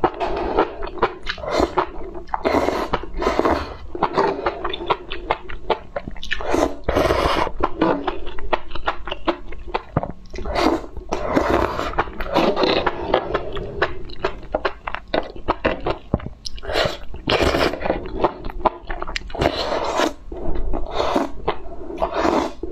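Close-miked chewing, biting and crunching of enoki mushrooms in chili sauce, with fork scrapes on the tray.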